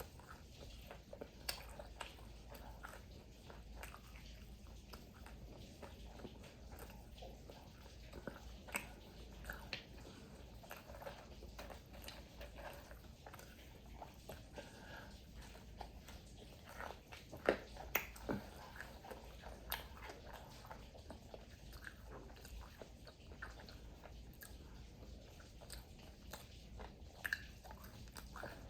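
Close-miked biting and chewing of fried food: soft wet chewing with scattered crunches and mouth clicks, a few louder crunchy bites about two-thirds of the way through.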